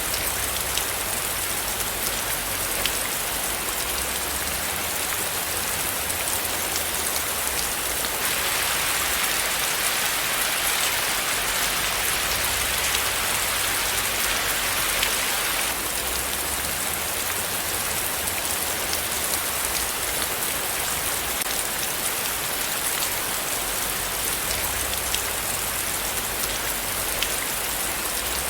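Steady rain falling, a dense hiss of many small drops pattering on a surface, a little fuller for several seconds in the middle.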